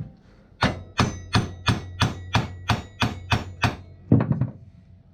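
Hammer blows on metal, about ten evenly spaced strikes at roughly three a second, each with a short metallic ring, then a quick cluster of lighter hits near the end. The metal being struck is a corroded part of an ATV wheel assembly that is being knocked loose to remove it.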